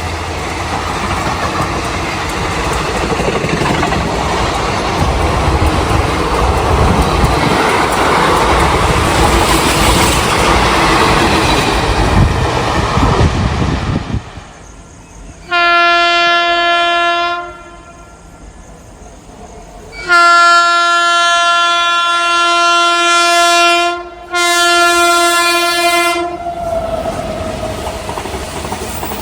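An Indian Railways express train runs through the station at speed, its wheels rumbling and clattering over the rail joints. After a sudden break, a locomotive horn sounds three blasts: a short one, a long one, and another short one that follows almost at once.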